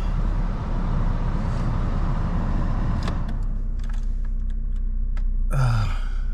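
Car engine running as the car is moved through deep snow: a rushing noise for about the first three seconds drops away to a steadier, quieter hum with a few light clicks.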